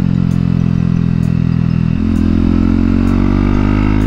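Honda CB125R's single-cylinder four-stroke engine running under way. Its pitch holds steady, drops about two seconds in, then climbs steadily as the bike accelerates.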